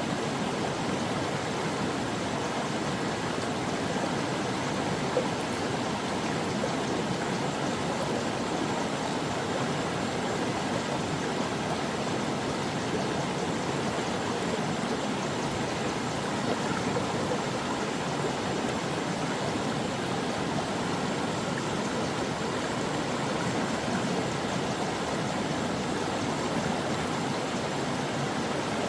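Stream water running steadily, a continuous even rush with no breaks or changes.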